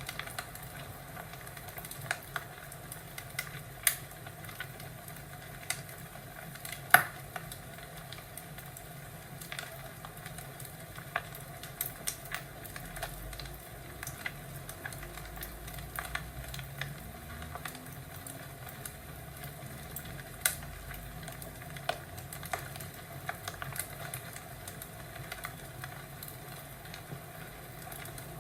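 Wood fire crackling in a fireplace: a steady soft hiss broken by irregular sharp pops and snaps, the loudest about seven seconds in.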